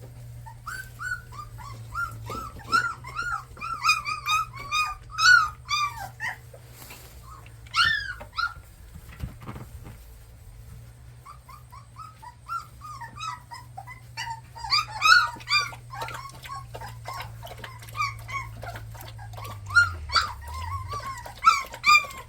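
A litter of young puppies whimpering and squealing: many short, high, rising-and-falling cries overlapping in busy bursts, easing off for a couple of seconds near the middle before starting up again.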